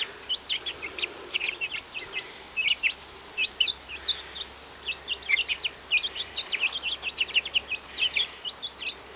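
Young chicks peeping: many short, high cheeps, several a second, kept up throughout.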